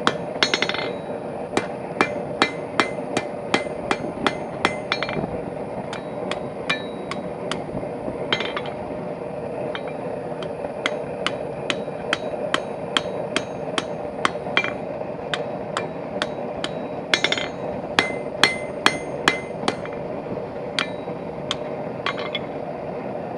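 Blacksmith's hand hammer striking hot steel bar stock on an anvil while forging a hinge, a steady run of blows about three a second with short pauses, some blows ringing briefly. A steady hum runs underneath.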